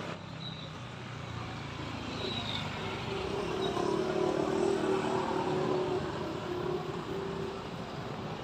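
Road traffic passing; a motor vehicle's engine grows louder to a peak about four to six seconds in, then fades.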